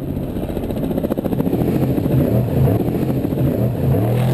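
Off-road race truck engine revving up and down repeatedly under hard driving, with rattling over the top.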